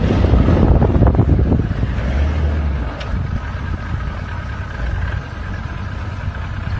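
Wind buffeting the microphone over a loud low rumble, easing a little about halfway through, with a faint steady high tone appearing.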